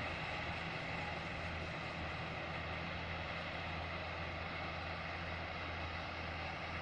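Self-propelled combine harvester running steadily, its diesel engine and threshing machinery giving an even, unbroken hum.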